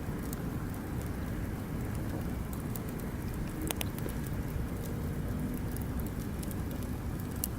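Bonfire burning: scattered sharp crackles and pops over a steady low rumble.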